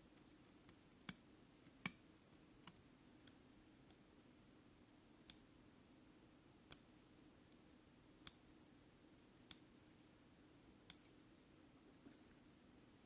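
Sharp light clicks of metal probe tips tapping against the pins of an Opel engine control unit's connector during a continuity check, about nine clicks at uneven intervals over a faint steady hum.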